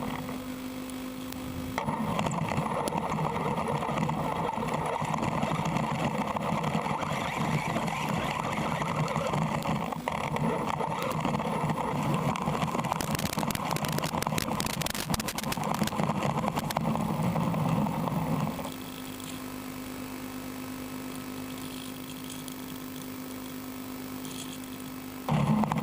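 Brushless-motored RC car driving, a rough running noise from about two seconds in until a few seconds past the halfway point. After that it drops to a quieter steady hum, with a short loud burst near the end.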